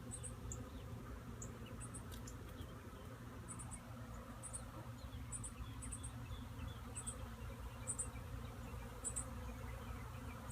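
Swarm of honeybees buzzing steadily around a hive box. A short high chirp repeats about once a second over it.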